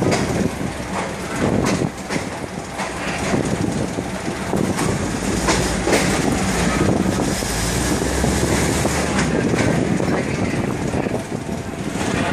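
State Railway of Thailand passenger train rolling at low speed, its wheels clattering and clicking over rail joints and points with a steady running rumble.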